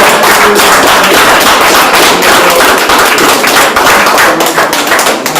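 Audience applauding, a dense crowd of hand claps that thins out near the end.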